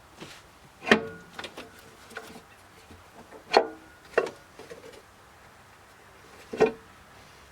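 Hand tools and loose metal parts clinking and knocking while the valve cover is being removed. There are four sharp, ringing clanks, about a second in, twice around three and a half to four seconds, and near the end, with lighter clicks of handling between them.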